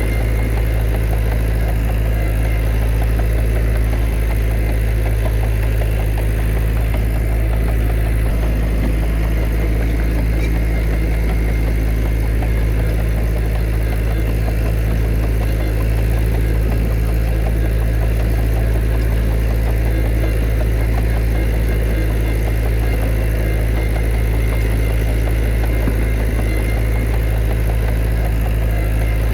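Heavy diesel engine of an earthmoving machine running steadily at a constant speed, a low even drone with no revving or change.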